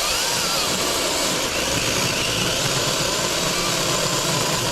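SAKER 20-volt cordless mini chainsaw running steadily under load, its chain cutting through a branch without bogging down.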